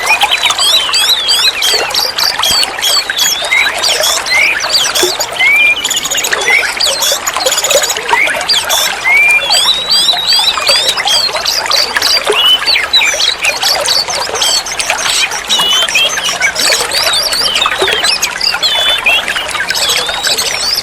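Oriental magpie-robin (kacer) singing continuously: a dense, unbroken stream of varied whistles, slurred glides and rapid chirps.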